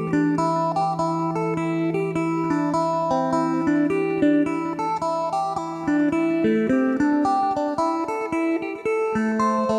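Electric phin, a three-string Isan lute with a pradu-wood body, played in a lively choeng Isan style: a quick picked melody runs over a sustained open-string drone. The low drone drops out about two-thirds of the way through, and a higher drone note comes in near the end.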